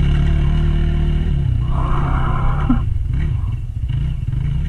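Dirt bike engine running at low revs, with a brief higher-pitched sound about two seconds in.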